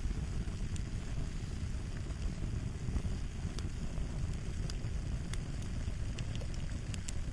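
Fire crackling: a steady low rumble of burning with irregular sharp pops and snaps, roughly one or two a second.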